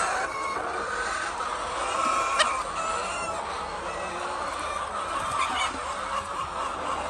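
Many laying hens clucking together over a steady background noise, with a single sharp click about two and a half seconds in.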